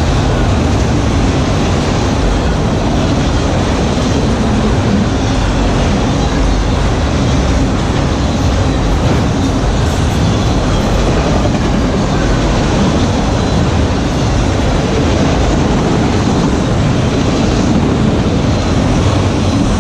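Freight train of autorack cars rolling past close by: a loud, steady rumble of steel wheels on the rails.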